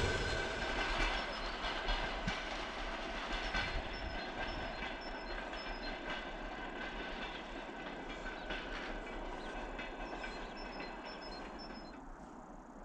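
Passenger train receding down the track, its wheels clattering over the rail joints and fading steadily into the distance.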